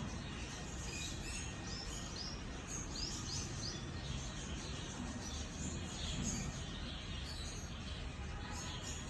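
Small birds chirping: short high notes scattered over steady background noise, with a quick run of several chirps about three seconds in.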